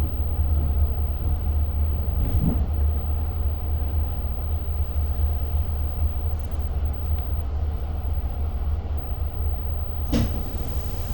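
Diesel-hauled Long Island Rail Road commuter train running, heard from inside the passenger car: a steady low rumble, with a brief knock about two and a half seconds in and a sharp clack near the end.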